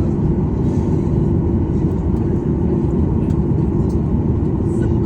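Steady cabin noise inside a Boeing 737-800 on the ground after landing: its CFM56 engines running at idle with the air conditioning, a continuous low rumble with a steady hum over it.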